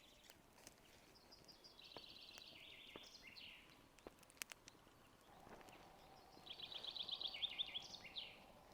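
A small songbird sings twice, each song a quick run of trilled notes stepping down in pitch and ending in a short flourish. A few faint sharp crackles from a campfire fall between the two songs.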